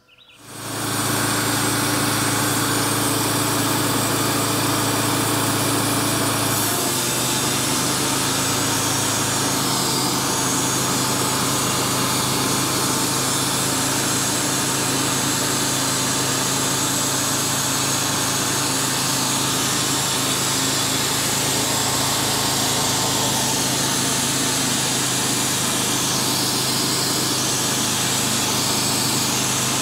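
Wood-Mizer portable band sawmill running steadily while sawing a walnut log. The engine note steps slightly lower about seven seconds in.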